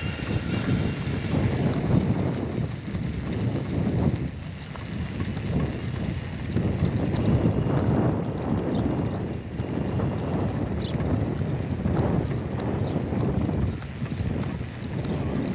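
Wind buffeting the microphone: a low rumble that swells and eases every couple of seconds.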